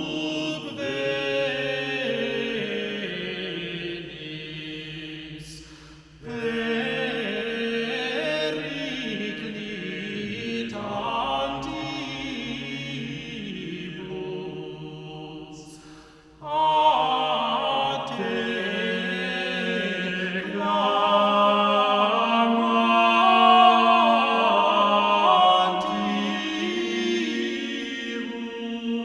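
Background music: choral chant of sustained voices over held drone notes, in long phrases that break off briefly about six seconds in and again about halfway through.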